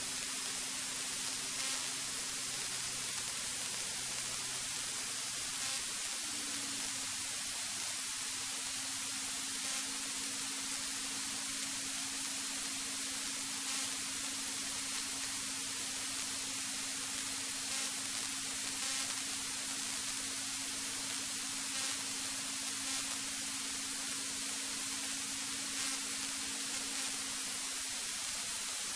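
Steady hiss of a light aircraft's cockpit intercom audio feed, with a faint steady hum beneath it that shifts slightly in pitch about six seconds in.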